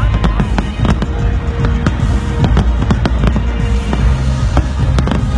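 Fireworks shells bursting in a pyromusical show: many sharp bangs in quick succession over loud accompanying music.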